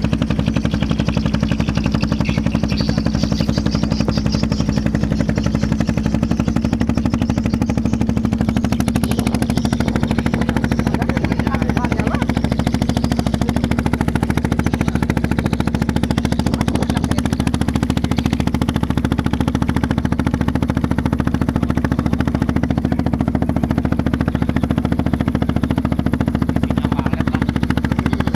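Engine of a getek, a small motorised river ferry boat, running steadily with a fast, even knocking beat.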